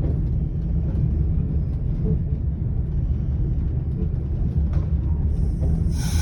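Single-car diesel railcar running slowly on the line, its engine and wheels making a steady low rumble with a few faint ticks. Just before the end the sound changes abruptly to a brighter hiss.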